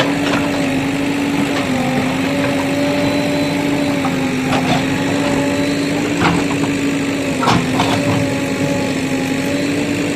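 JCB backhoe loader's diesel engine running steadily, with a few short knocks about four and a half, six and seven and a half seconds in.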